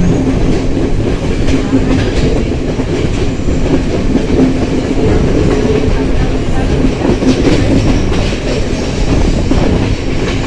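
Train running along the track, its wheels clattering over the rail joints, with a steady low hum under the noise.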